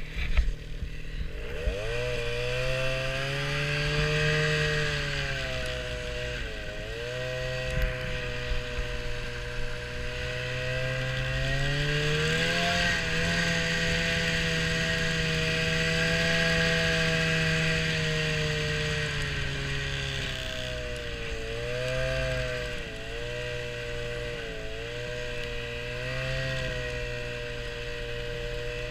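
Small petrol engine of a vehicle being driven, revving up sharply in the first couple of seconds and then rising and falling in pitch as the speed changes.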